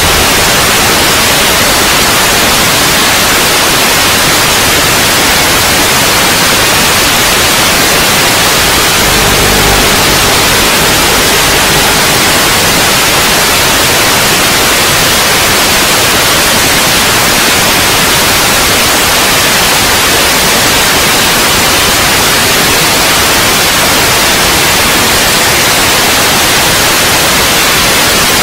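Loud, steady static hiss, the white-noise audio of an analog FPV video link as recorded on a drone-racing DVR, with only a brief trace of motor hum about nine seconds in.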